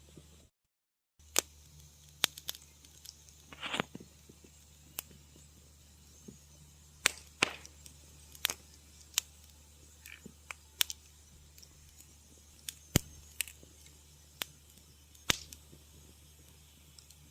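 Wood fire crackling in a fireplace: irregular sharp pops and snaps, a few of them loud, with a short hissing flare a few seconds in, over a low steady hum. The sound cuts out completely for under a second near the start.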